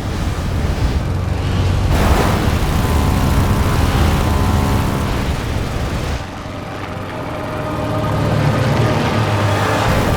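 Action film soundtrack: score music over a heavy, deep rumble, with abrupt shifts in the mix about two and six seconds in.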